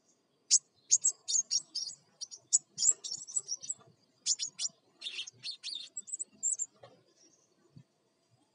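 Crimson sunbird singing vigorously: rapid runs of sharp, high chips and twitters in two bouts, with a short break about four seconds in. This is the excited, agitated chattering that bird-keepers use to rouse other birds.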